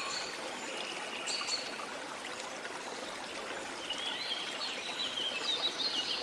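Steady wash of sea water with small birds chirping over it: a few calls near the start and a little after a second, then a busier run of quick chirps near the end.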